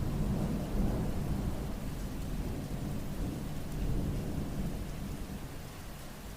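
Steady rain with a low rumble of thunder rolling on and slowly dying away.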